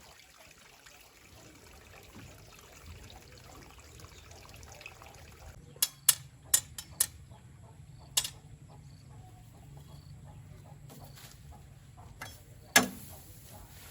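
A cluster of five or six sharp knocks about six seconds in, another a couple of seconds later and a louder one near the end, over a faint steady low hum.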